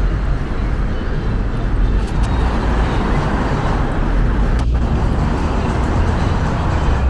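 Steady city street traffic noise: car engines and tyres running past, with a deep rumble underneath.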